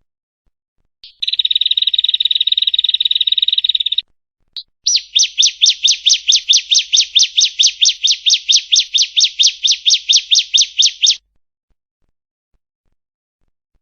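Female ciblek (bar-winged prinia) calling: a short note, then a fast continuous trill lasting about three seconds, and after a brief pause a long run of sharp repeated notes, about five a second, that stops suddenly about eleven seconds in.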